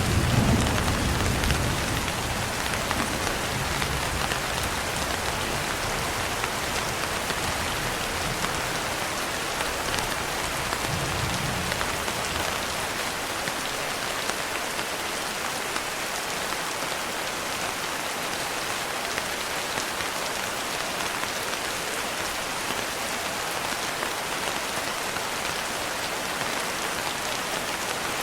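Steady rain falling on a window glass. Low rolling thunder rumbles at the start, is loudest in the first couple of seconds, swells once more about eleven seconds in, then dies away, leaving only the rain.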